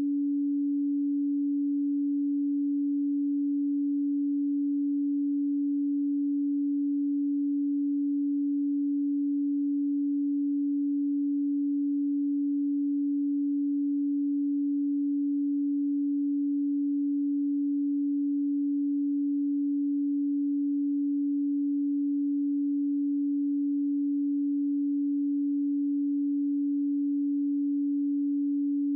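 A pure 285 Hz sine tone, one steady unchanging pitch with no overtones.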